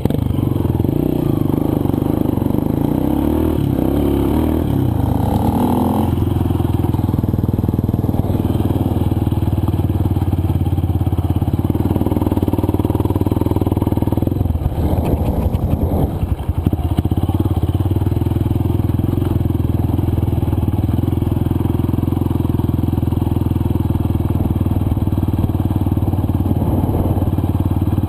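Single-cylinder four-stroke dirt bike engine running at a steady pace under way, easing off briefly about halfway through and then pulling again.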